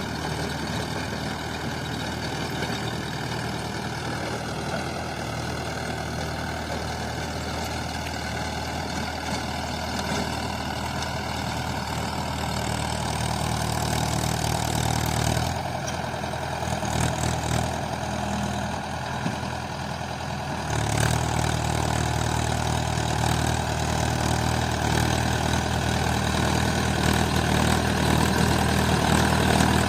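Mahindra 575 DI tractor's diesel engine running steadily. For about five seconds past the middle the deep engine note thins and wavers, then comes back full, growing slowly louder toward the end.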